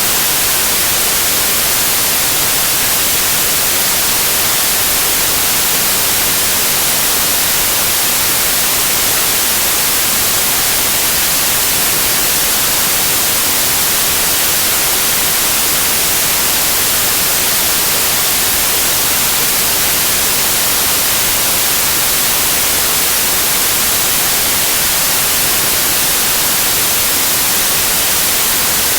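Steady TV-static white noise, an even hiss weighted toward the highs, with no change or break.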